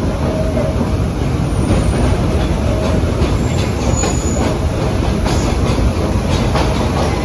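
Vintage BMT BU gate cars running along the track, heard from aboard: a steady rumble with wheels clicking over rail joints and a faint squeal from the wheels.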